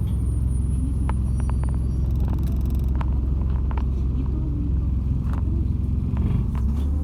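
Inside a moving MAZ-206 city bus: the engine and road make a steady low rumble, with scattered light clicks and rattles from the body and fittings. The rider describes the bus as vibrating heavily.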